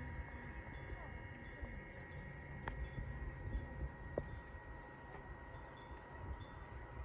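Faint wind chimes tinkling: scattered high notes at varying pitches, over a steady low rumble.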